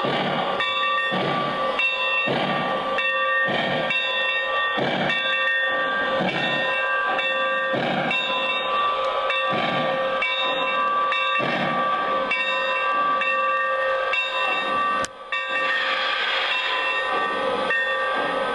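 Lionel Legacy O-scale AT&SF Northern steam locomotive running with its digital steam sound effects: a steady chuff about once a second over a steady high tone. Near the end the sound briefly cuts out, then a hiss comes in.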